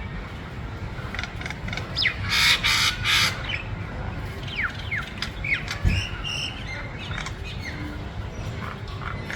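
Birds calling: many short, quick falling chirps, with three loud, harsh calls in a row about two seconds in, over a steady low rumble.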